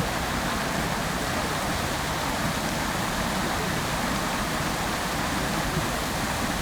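Fountain jets falling into their basin, a steady, unbroken rush of splashing water.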